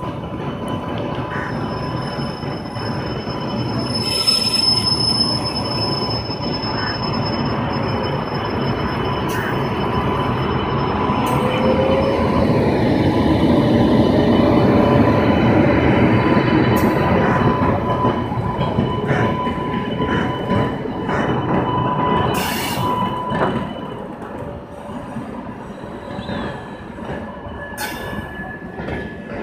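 Indian Railways WAP-7 electric locomotive pulling slowly out with a train of LHB coaches: a steady rumble of the locomotive and wheels with thin high wheel squeal over it. It is loudest as the locomotive goes by about halfway through, then eases as the coaches roll past with a few clanks.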